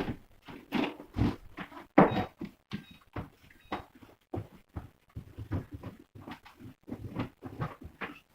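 Food packages and containers being handled and moved about in a fridge: an irregular run of thunks, knocks and rustles, loudest about two seconds in.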